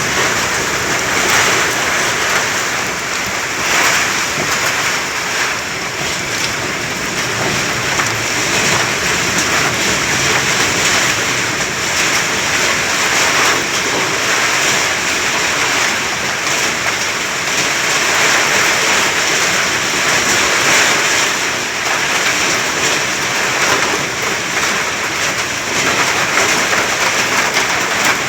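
Sandstorm: strong wind driving blowing sand, a loud steady rushing hiss that swells and eases a little.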